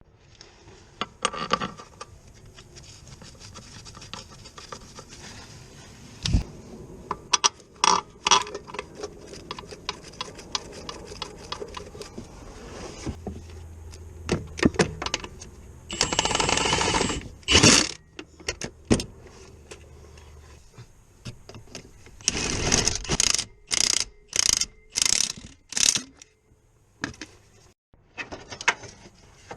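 Mechanic's tool work on a car: scattered metallic clicks, knocks and clinks, a dense burst of noise lasting about a second and a half past the middle, and a quick run of about six short bursts near the end.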